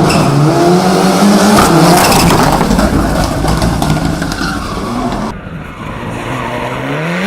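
Mitsubishi Lancer Evolution VI race car's turbocharged four-cylinder engine at full attack, revs rising and falling through gear changes over a loud rushing noise. About five seconds in the sound drops back, then the revs climb steadily near the end.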